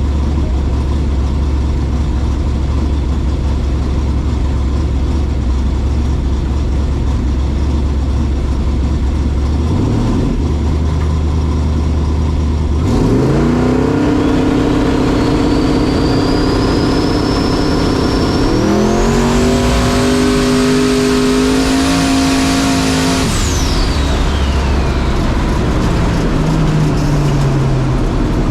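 Turbocharged drag car making a pass. After a low rumble and a brief rev, the engine goes to full throttle about halfway through and holds a high note, with a turbo whistle climbing above it. There is one gear change a few seconds later, then the driver lifts off and the whistle falls away.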